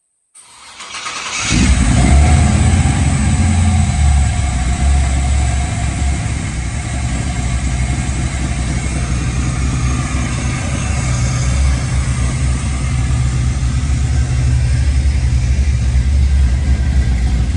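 A 1965 Chevy Nova's swapped-in aluminum 6.0-litre LS V8 with an aftermarket cam cranks briefly and catches, then settles into a loud, steady idle.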